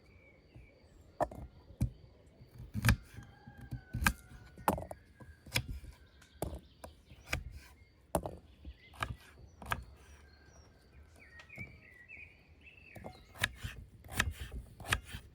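Knife chopping vegetables on a wooden cutting board: a run of sharp, irregular knocks. Faint bird calls in the background, clearest near the end.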